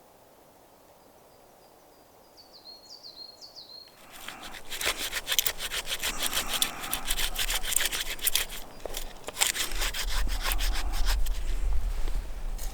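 A few short high chirps, then from about four seconds in a saw cutting through wood in quick, repeated strokes.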